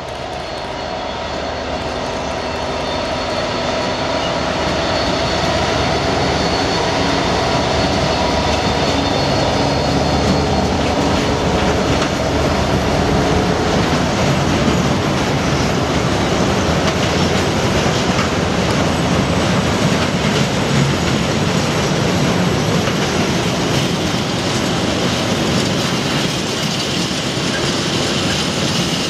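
DRS Class 66 diesel locomotive running as it passes close by, growing louder over the first few seconds, then the steady rumble of a long train of container flat wagons rolling past on the rails.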